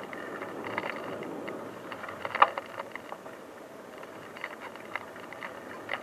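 Bicycle being ridden over a rough dirt track: steady tyre noise with frequent small rattles and clicks from the bike, and one sharp knock about two and a half seconds in.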